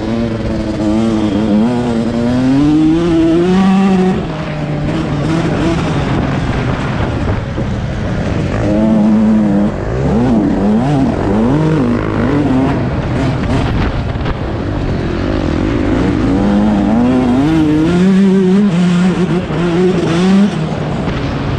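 Two-stroke 125cc motocross engine of a Yamaha YZ125 revving hard and dropping off again and again while riding, with quick throttle blips about halfway through, over steady wind and riding noise.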